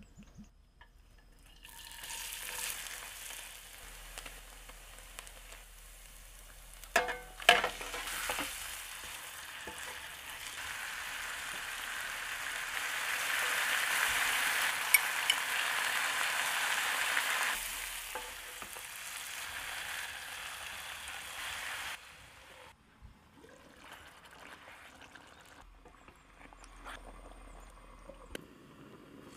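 Chicken pieces and whole spices frying in hot oil in a stainless pan, a steady sizzle that is loudest about halfway through. A few sharp clicks come about seven seconds in, and after about 22 seconds the sizzle gives way to a much quieter stretch.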